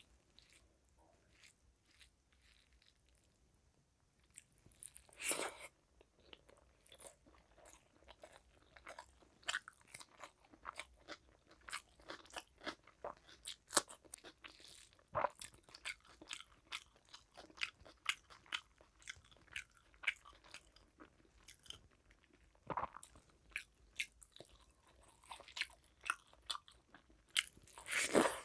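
Close-miked chewing of hand-mixed rice and fried fish: a quiet first few seconds, then from about four seconds in a steady run of wet clicks and crunches, with louder crunches about five seconds in and near the end.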